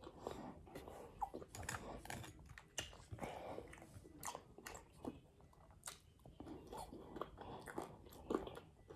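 A person chewing and biting food close to the microphone, with many short, faint crunches and wet mouth clicks.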